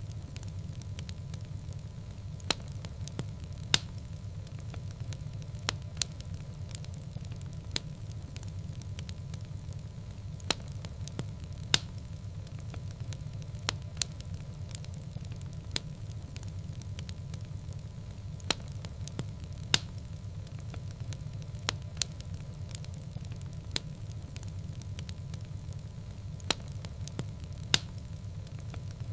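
Wood fire burning in a fireplace: sharp crackles and pops about every second or so over a low, steady rumble.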